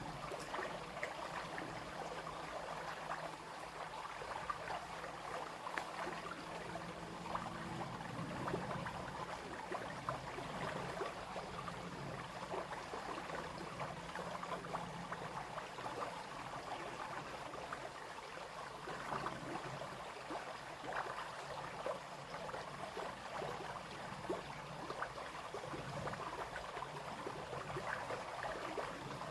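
Small brook babbling and splashing steadily over stones.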